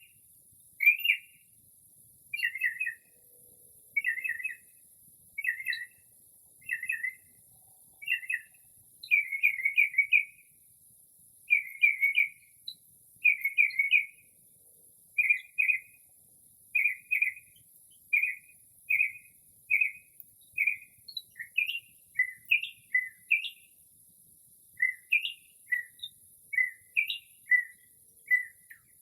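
Northern mockingbird singing, mimicking other birds' calls: short phrases of a few notes, about one a second, each phrase repeated several times before it switches to a new one. Toward the end the phrases become quick rising and falling notes.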